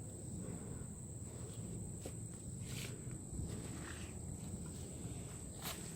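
Faint rustles of a synthetic winch rope being slid through a woven feed-bag sleeve, a few soft scrapes over a low steady background hum and a thin high whine.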